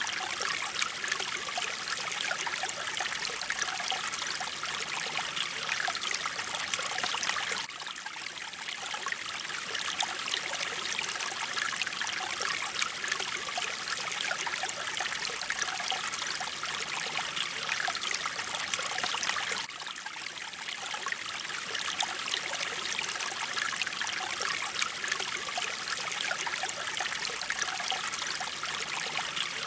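Mountain stream water flowing steadily, its level dipping slightly twice, about a quarter and two thirds of the way through.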